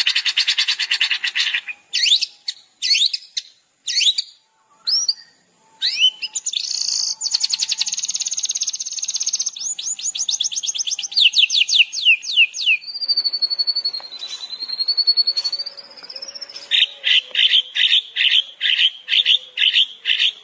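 Songbird song of the kind played as 'masteran' training audio for cage birds: fast trills and sharp rising chirps, then a long wavering whistle, then a run of about four repeated notes a second near the end.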